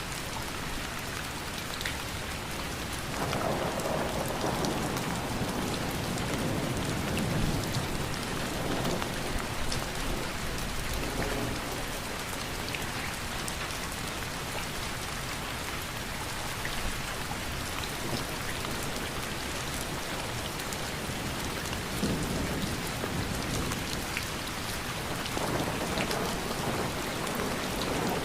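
Steady rain falling. Low rumbles of thunder swell in about three seconds in and last several seconds, then come again near the end.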